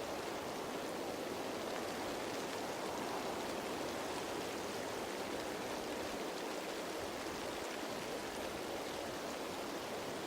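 Steady rain falling on leaves, a dense even patter with faint scattered drop ticks.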